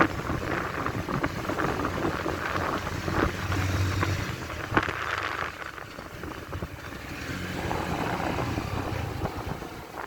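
Motorcycle engine running on the move, with wind buffeting the microphone, and a sharp click about five seconds in.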